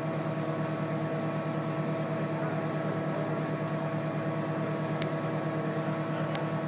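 Fire ladder truck's diesel engine idling steadily, with a constant low hum. Two faint ticks come near the end.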